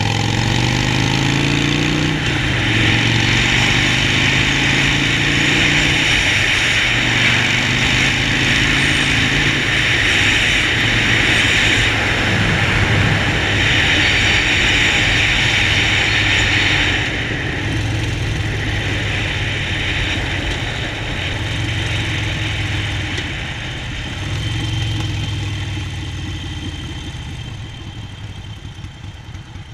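Harley-Davidson Sportster Forty-Eight's air-cooled V-twin running as the bike is ridden, its pitch climbing in steps over the first few seconds. A loud rushing noise lies over the engine until about halfway through, then drops away, and the engine note eases off and grows quieter near the end as the bike slows.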